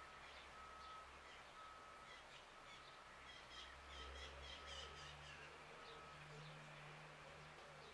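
Faint outdoor birdsong. One bird repeats a single clear whistled note about once a second, stopping about six seconds in, while other birds chirp briefly in the middle.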